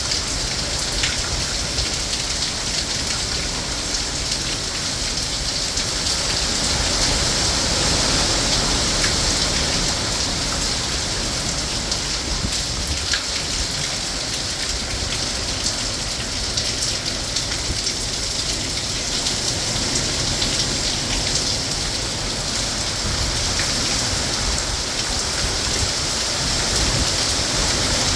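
Hurricane rain falling steadily, a dense even hiss of rain on surfaces.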